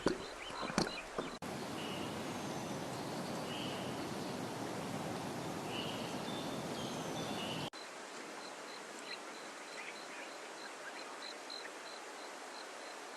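Natural outdoor ambience: a steady hiss with scattered short bird chirps. After a sudden cut partway through, a high call repeats about twice a second over a quieter hiss, likely from an insect or bird.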